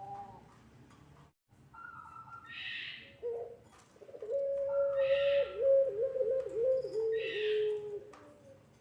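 Puter pelung, a long-voiced Barbary dove, cooing: a short coo, then one long drawn-out note that wavers and dips repeatedly in pitch before it ends. Short breathy hisses recur every couple of seconds.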